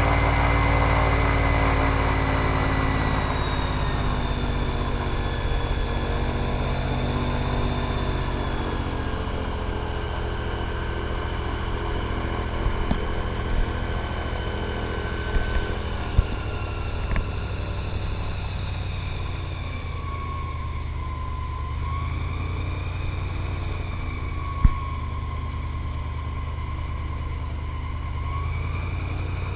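Airboat's engine and large air propeller running. The pitch falls over the first few seconds as the throttle eases, then holds fairly steady with small rises and dips. A few short sharp knocks come through in the middle.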